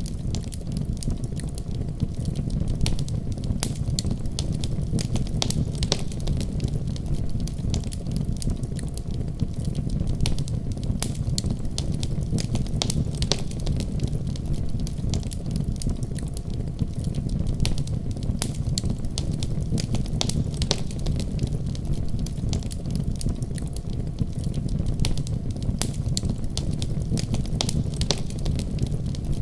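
Wood fire burning with a steady low rumble and many irregular sharp crackles and pops.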